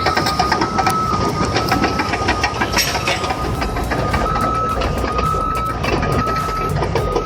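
Bulldozer working, its engine running under a steady clatter of track and metal knocks, with a reversing alarm beeping about once a second.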